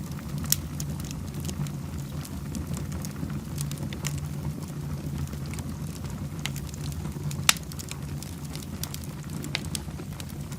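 Fireplace fire burning, with a steady low rumble of flames and scattered sharp crackles and pops. The loudest pops come about half a second in and about seven and a half seconds in.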